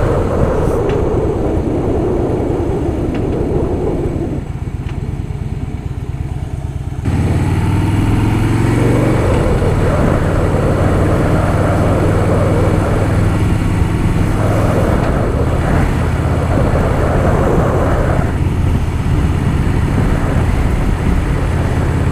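Harley-Davidson Softail Fat Boy's air-cooled V-twin engine running under way. About four seconds in it eases off and goes quieter, then about seven seconds in it comes back on the throttle, louder, and holds steady.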